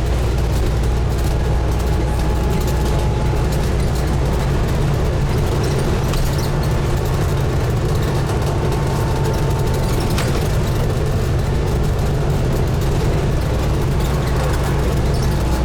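Scania N250UD double-decker bus's five-cylinder diesel engine running steadily with a deep, even hum. A faint whine sits over it through the middle, and there are a couple of light clicks about six and ten seconds in.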